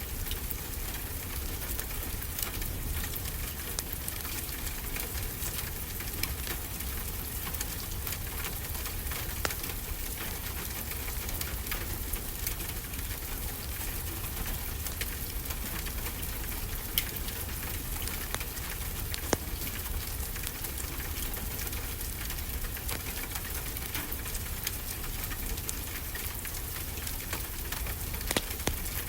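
Steady rain with a low rumble beneath it, and a wood fire crackling, giving a few sharper pops.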